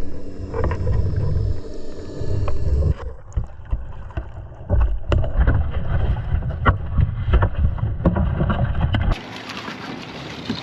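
Wind buffeting the microphone on a kayak, with irregular knocks and water sounds as a heavy crab pot is hauled up hand over hand. It drops to a quieter hiss near the end.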